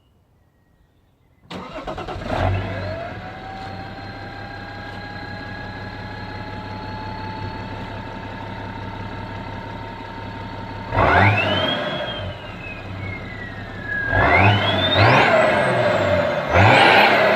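Turbo-diesel engine starting about a second and a half in, then idling with a thin steady whine. It is revved three times near the end, and each rev brings a whistle that climbs and falls.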